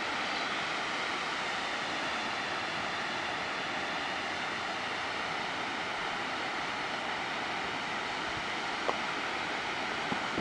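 Large mountain waterfall pouring, a constant even rush of falling water, with a single small click near the end.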